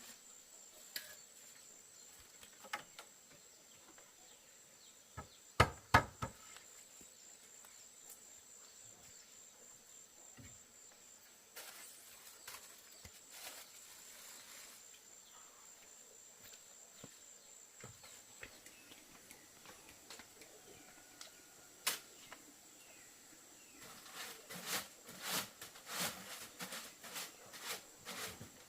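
An insect, cricket-like, trilling steadily at a high pitch for about the first two-thirds, then stopping. Scattered sharp knocks, a pair about six seconds in, and a quick run of knocks near the end.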